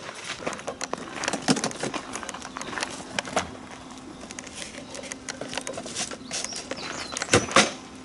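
Irregular clicks and knocks, the loudest pair near the end, with a bird chirping briefly about six seconds in and a faint steady hum underneath.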